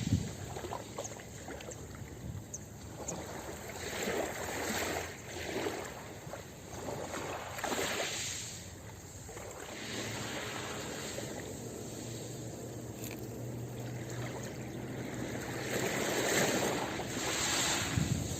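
Ocean surf washing onto a beach, swelling and fading every few seconds, loudest near the end.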